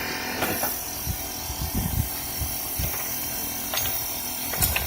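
Metal pieces of a ball joint press kit clinking and knocking as they are handled and sorted: scattered clicks and a few dull knocks.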